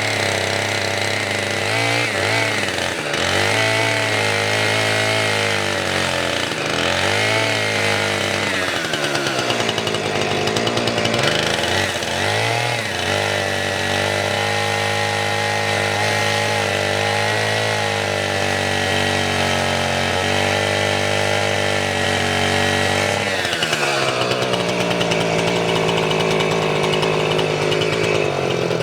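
Two-stroke chainsaw running at speed while cutting firewood logs, its engine note dipping and recovering several times as the chain bites into the wood. Near the end the engine note changes and drops.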